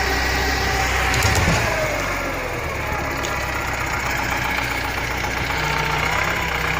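Heavy logging truck's engine running under load, its pitch dropping about a second and a half in, then running steadily.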